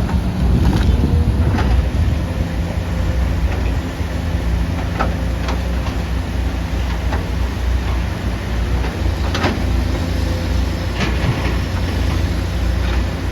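Excavator's diesel engine running steadily under work, with a number of sharp clanks and knocks scattered through it.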